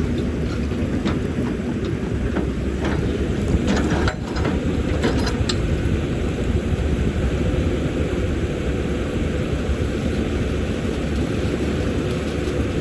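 Caterpillar 320D excavator's diesel engine running steadily. A series of sharp clanks sounds from about half a second to five and a half seconds in.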